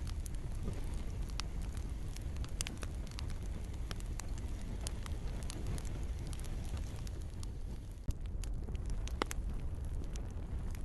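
Wood campfire crackling: frequent sharp pops and snaps of burning wood over a steady low rumble of the flames.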